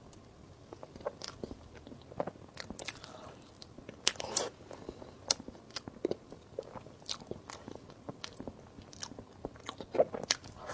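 A person biting and chewing desserts for an ASMR recording, with irregular sharp crisp clicks and mouth smacks. The loudest bites come about four seconds in and near the end.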